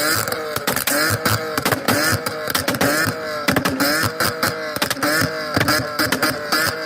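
A car engine revved up and down over and over, with sharp pops between the revs.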